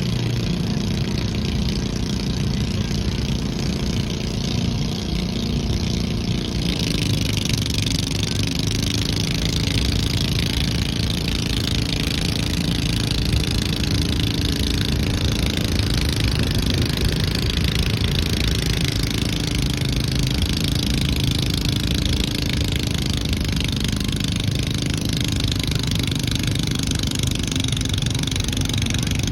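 A garden pulling tractor's engine runs steadily throughout, growing louder and harsher about seven seconds in.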